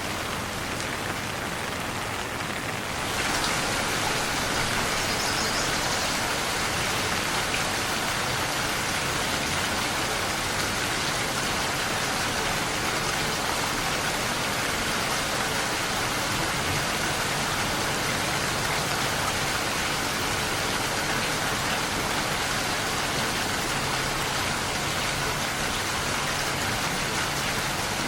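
Steady rain falling, a dense even hiss of drops that grows louder and heavier about three seconds in, then holds steady.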